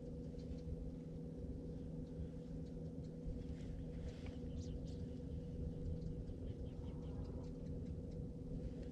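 A boat's motor humming steadily at low speed, with faint small ticks and squeaks scattered over it.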